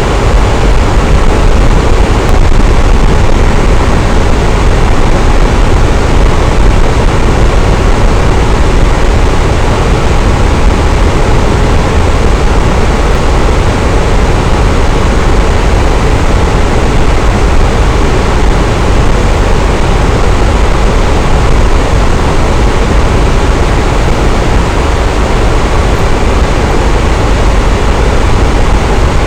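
Electric fan running with a steady, even whoosh of moving air and a low rumble, unchanging throughout.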